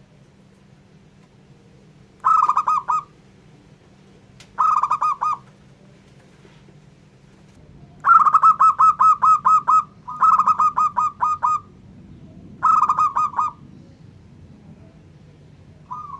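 Zebra dove (perkutut) cooing in five bursts of rapid staccato notes, the longest about two seconds, over a faint steady low hum.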